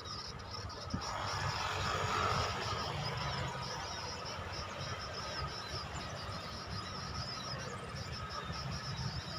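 Insects chirping steadily in a high, finely pulsing band, with a brief swell of rushing noise about a second in.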